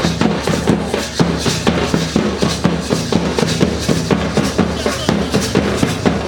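Dhamsa and madal drums played for a tribal dance, beating out a steady, fast rhythm of deep booming strokes and sharper hand strokes.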